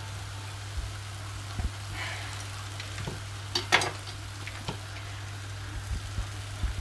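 Chicken wings frying in butter and spices in a pan: a steady sizzle, with a spoon knocking and scraping against the pan now and then, the loudest knock a little under four seconds in. A steady low hum runs underneath.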